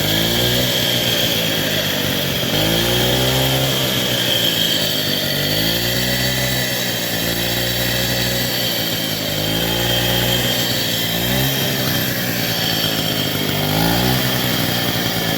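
1964 Raleigh Runabout RM8's 50cc two-stroke engine running and revved up and down about five times, loud with rattly crank bearings, which are noisy from wear.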